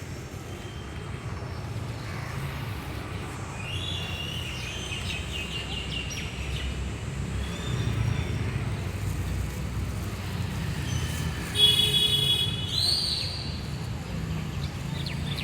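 Birds calling over a steady low rumble of background noise: a run of short chirps, then one loud, harsh call about twelve seconds in, followed by a shorter rising call.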